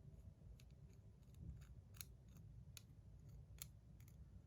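Faint, irregular small clicks and ticks of a small screwdriver working the screws out of a metal fidget slider.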